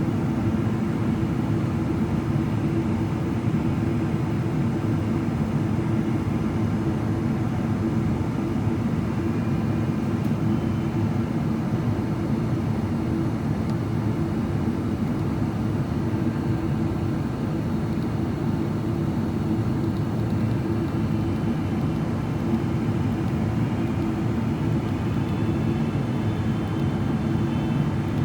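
Steady cabin roar inside a Boeing 777-300ER in descent: airflow over the fuselage and its GE90-115B engines, even and unchanging throughout.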